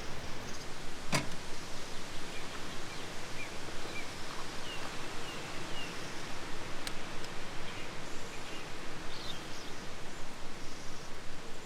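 A steady, dense hiss of outdoor noise, with a sharp click about a second in and another near the middle. Faint short bird chirps come through the hiss.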